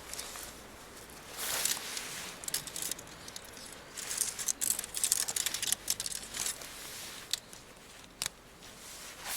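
Irregular clicks, light rattles and rustling, as when camping gear is handled and unpacked, busiest in the middle with a few single clicks near the end.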